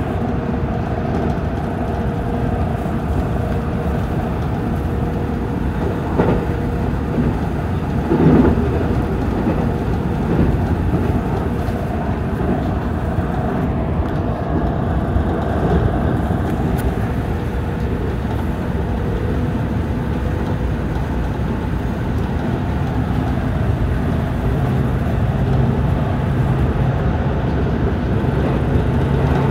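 JR Central 313 series electric train running at speed, heard inside the leading car: a steady rumble of wheels on the rails with a faint held hum, and two short knocks about six and eight seconds in.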